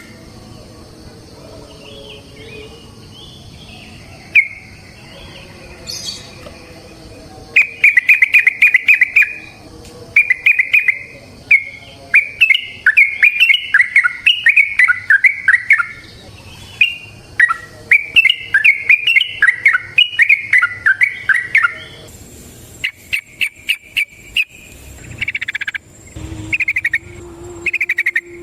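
Yellow-vented bulbul (trucukan) singing: rapid, bubbling runs of notes in long repeated phrases, the 'ropel panjang' song. It is fainter at first and becomes loud about seven seconds in.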